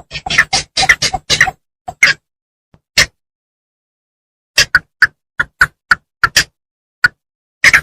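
Bittern calling: a quick run of short, sharp notes, a few single notes, a pause of over a second, then another evenly spaced series of about three notes a second.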